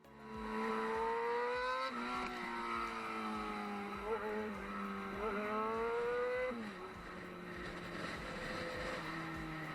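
Motorcycle engine accelerating: its pitch climbs, drops at a gear change about two seconds in, climbs again, then falls back near seven seconds to a lower, steadier note as the throttle eases.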